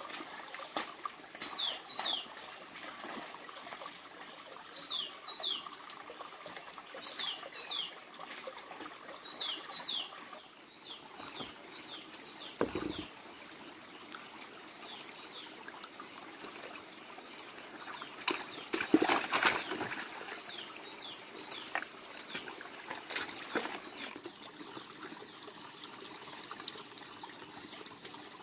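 A bird calling in pairs of short falling chirps, repeated every two to three seconds and fainter later on, over a faint steady trickle of water. A cluster of sharp knocks about two-thirds of the way in is the loudest sound.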